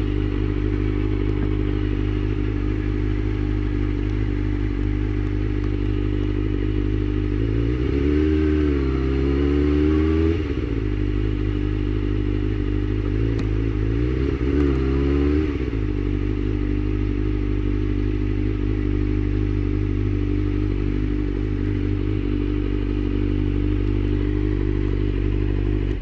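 Suzuki GSX-R600 sportbike's inline-four engine idling steadily, revved briefly twice in the middle, then cut off suddenly at the end.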